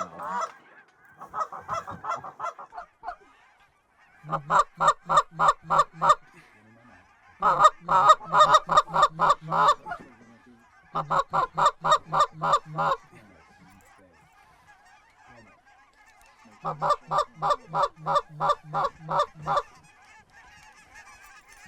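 Goose call blown in fast, evenly spaced honks and clucks, about five notes a second, in five runs of about two seconds each, calling a flock of lesser geese in. A flock of geese calls faintly underneath throughout.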